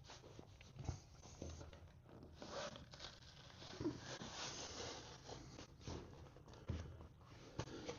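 Faint rustling, scraping and scattered light knocks of hands handling materials at close range.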